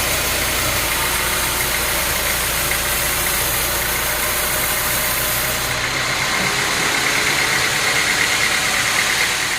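A large engine running steadily, typical of heavy sawmill or log-handling machinery. About six seconds in the hiss thins out.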